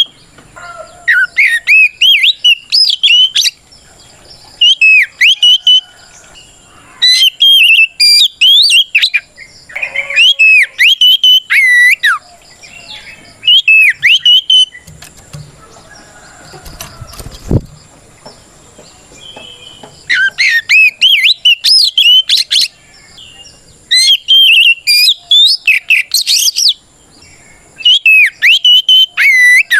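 Oriental magpie-robin singing loud phrases of quick whistled, warbling notes, each a second or two long with short pauses between and a longer pause midway. This is its territorial challenge song. A single low knock is heard during the pause.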